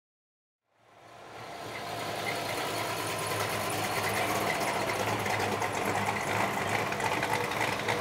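Engines of classic cars driving slowly past, running with a fast, even mechanical beat. The sound fades in about a second in, then holds steady.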